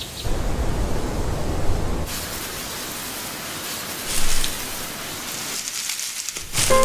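Rushing, hiss-like noise, like moving air. It has a deep rumble under it for the first two seconds, then thins to a brighter hiss with a brief surge about four seconds in.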